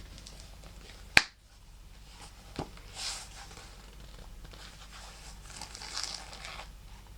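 A purse's magnetic clasp snapping shut with one sharp click about a second in, then a softer click. After that come two stretches of fingers scratching and rubbing over the purse's snake-leather surface.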